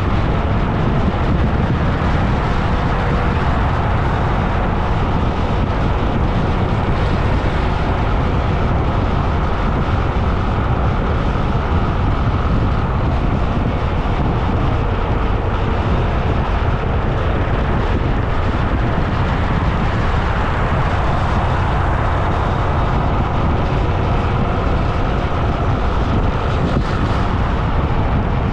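Steady rush of wind and road noise from riding along a road, with no breaks.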